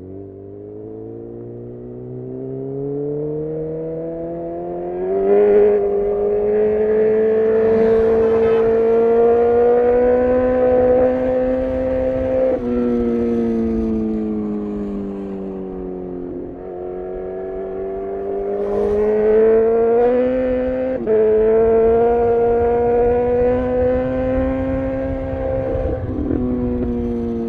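Honda CB1000R's inline-four engine through a full-system Black Widow exhaust, pulling up through the gears: the engine note climbs steadily and drops sharply at each of three quick upshifts. Partway through the throttle eases off and the note falls away for a few seconds before climbing again.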